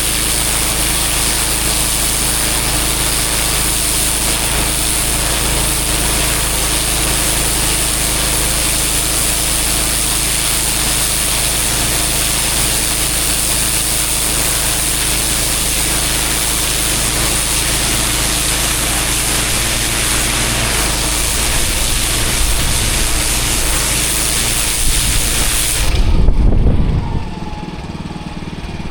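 Pressure washer running steadily, its engine droning under the hiss of the high-pressure water spray on the paving. About three seconds before the end, a loud low rumble comes through and the spray hiss cuts out.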